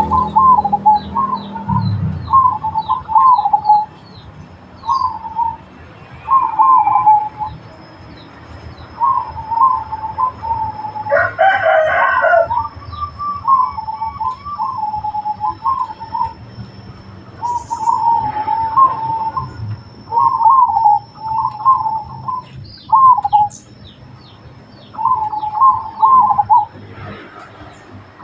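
Zebra doves (perkutut) cooing in repeated short trilled phrases, one after another with brief gaps. A rooster crows once about 11 seconds in, and small birds chirp faintly.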